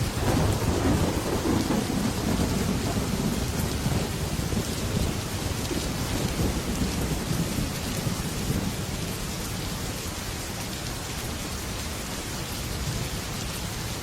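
Heavy rain drumming steadily on a metal roof, with a roll of thunder that breaks right at the start and rumbles away over about eight seconds.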